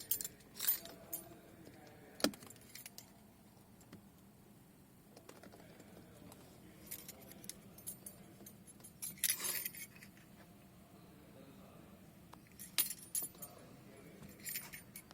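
Car keys jingling and clinking in the hand in short scattered bursts, the longest about nine seconds in, with a single sharp click about two seconds in.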